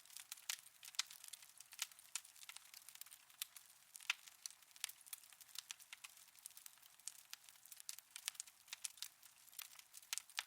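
Wood fire in a fireplace crackling: faint, irregular sharp pops and snaps, several a second, over a soft hiss.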